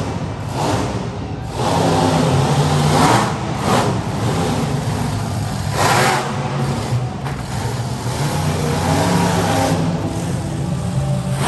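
Bigfoot monster truck's engine revving hard in repeated surges during a freestyle run, its pitch rising and falling, with sharp bursts about two, three and a half and six seconds in.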